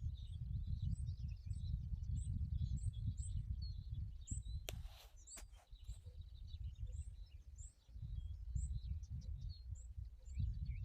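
Several small birds chirping, one repeating a short, high chirp at a steady pace, over a low rumble. Two sharp clicks come about half a second apart near the middle.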